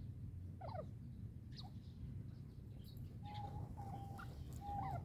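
A teetar (francolin) calling: a couple of short falling notes early, then a run of level whistled notes broken by quick upward flicks in the last two seconds, over a steady low background rumble.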